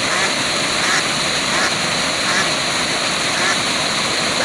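Steady rush of a waterfall, with short calls repeating roughly once a second over it.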